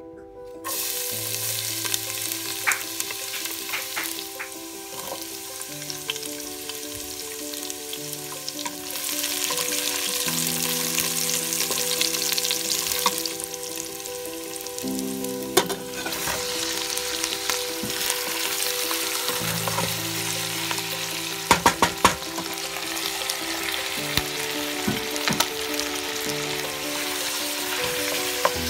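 Chopped onion and garlic sizzling and frying in hot oil in a stainless steel pot, starting just under a second in. Later, chunks of pork hock fry in the pot and are stirred with a wooden spoon, with a few sharp knocks about two-thirds of the way through.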